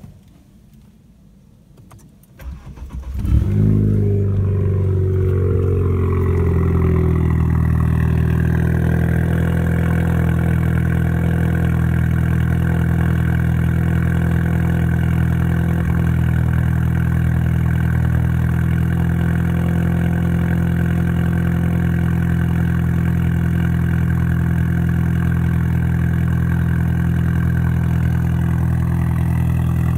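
Turbocharged car engine cold-started after sitting all day: about two seconds of quiet, a second of cranking, then it catches with a brief flare in revs that settles over a few seconds into a steady idle.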